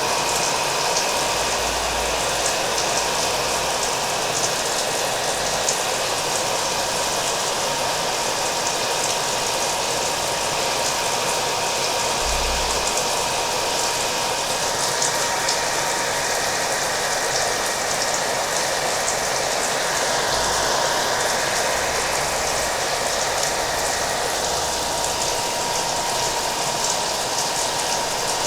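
Hair dryer blowing steadily, its motor giving a thin constant whine, mixed with the even patter of rain.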